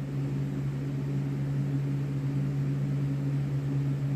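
Steady low mechanical hum with a faint hiss, holding one pitch without change.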